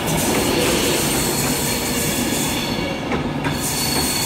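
Class 390 Pendolino electric multiple unit rolling slowly along the platform as it arrives: a steady rumble of wheels on rail, with a faint high squeal coming in near the end.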